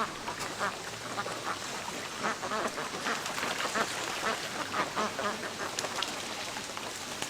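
A flock of domestic ducks quacking: many short calls overlapping one another.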